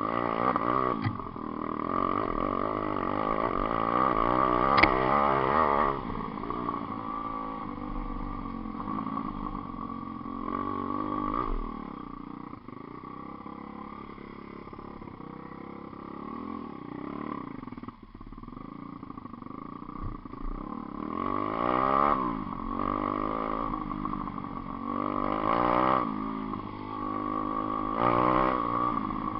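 GPX 125cc single-cylinder four-stroke pit bike engine revving up and down as the bike is ridden around. It is louder for the first few seconds and again in the last third, when the bike passes close, and quieter in between.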